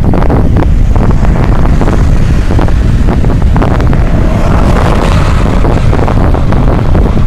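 Heavy wind rumble on the microphone of a camera riding along on a cross bike, with scattered knocks and rattles from the bike over the road surface. A hissing rush comes up about halfway through.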